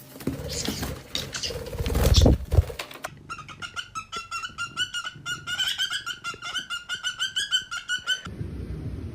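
Scuffling noises for the first few seconds, then a parrot giving a rapid run of short repeated calls, about five a second, for around five seconds, cutting off abruptly.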